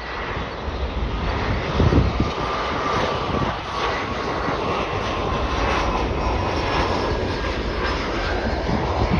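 Embraer E175 regional jet on approach, its twin turbofan engines a steady rush with a faint whine that drifts slightly lower in pitch. A low rumble swells briefly about two seconds in.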